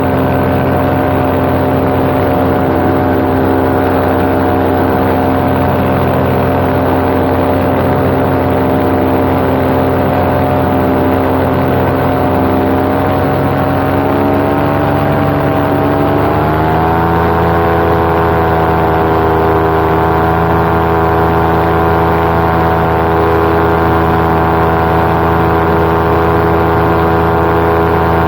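Paramotor engine and propeller running steadily in flight. A little under halfway through, the engine speeds up, its note rising over a few seconds, and then holds at the higher pitch.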